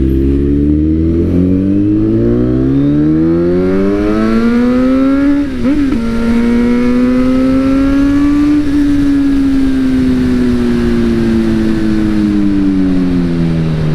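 Motorcycle engine pulling hard, its pitch rising steadily for about five seconds, then a brief dip at a gear change. It holds and climbs a little before slowly falling as the throttle eases off.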